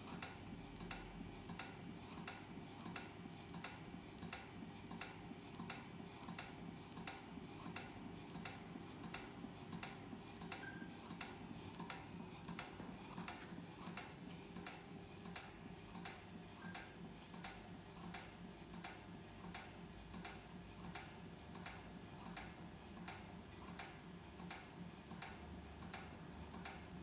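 Heinrici hot air (Stirling-type) engine running, its mechanism clicking steadily at about two to three clicks a second over a low steady hum.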